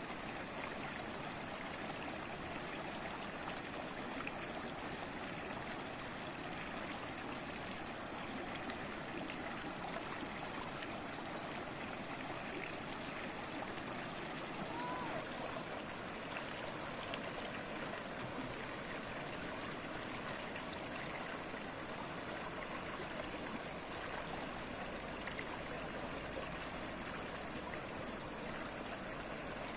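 A stream babbling and gurgling steadily over stones, with a few faint brief chirps.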